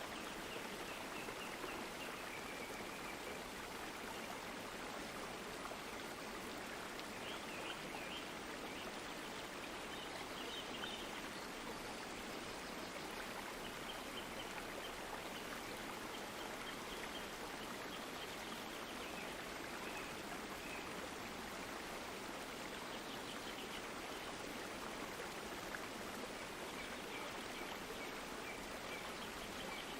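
Water flowing in a stream with a steady, even rushing, and faint high chirps now and then.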